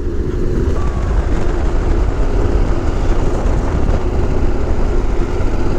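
Yamaha Ténéré 700's parallel-twin engine running at a steady cruising speed, with wind noise over the microphone.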